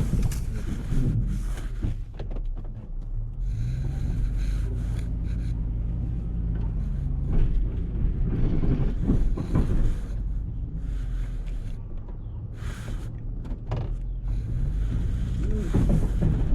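Pickup truck engine running while plowing snow with a front-mounted plow, heard from inside the cab; the engine pitch shifts a little, and there are a few brief louder noises in the second half.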